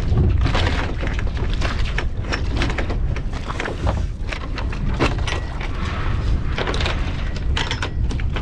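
Wind buffeting the microphone on a sailboat under way: a steady low rumble with irregular crackling gusts.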